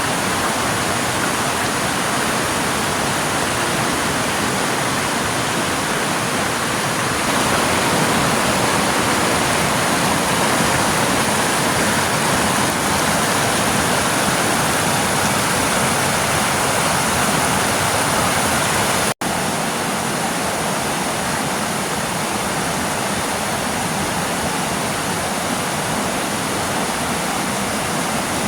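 Waterfall: a steady rush of falling water, a little louder from about seven seconds in, cut off for an instant about nineteen seconds in.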